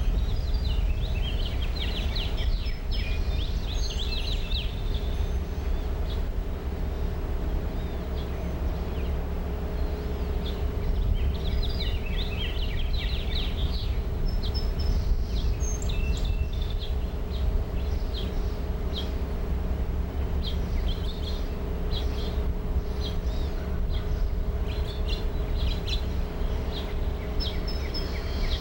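Birds calling: many short, high chirps and whistles come and go over a steady low rumble and a faint steady hum.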